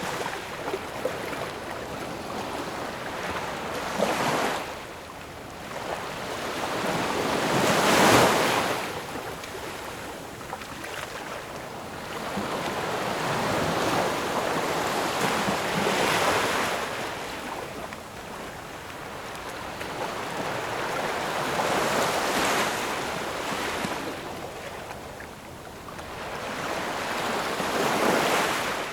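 Ocean waves breaking and washing on the shore in slow surges, swelling and easing every several seconds, with the loudest break about eight seconds in.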